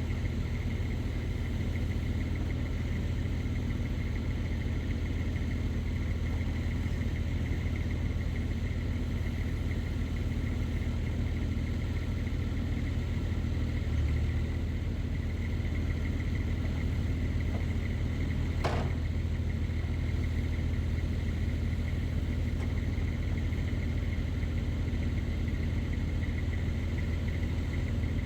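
1999 Fermec TLK760 backhoe's diesel engine running steadily, with a steady high whine over it. One sharp clank comes about two-thirds of the way through.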